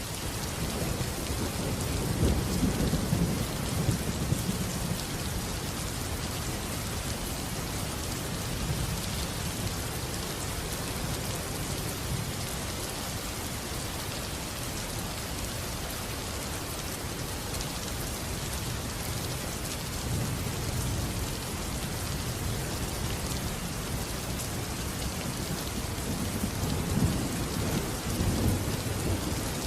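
Steady rain falling, with rolling thunder rumbling low a couple of seconds in and building again near the end.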